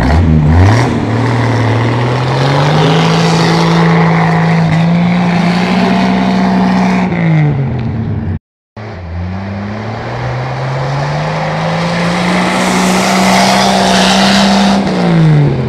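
Suzuki Jimny's engine revving up and holding high revs for several seconds, then dropping back. This happens twice, with a sudden brief dropout in between.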